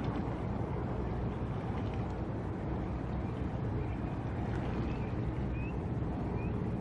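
Steady low rumble of a ship's engine with water noise, and a few short high chirps near the end.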